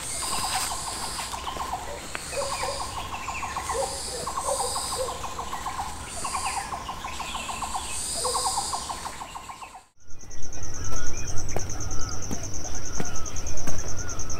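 A bird's rapid trill, repeated about six times with short gaps, over high pulsing calls. It cuts off abruptly about ten seconds in and gives way to a steady high-pitched buzz and a louder low rumble.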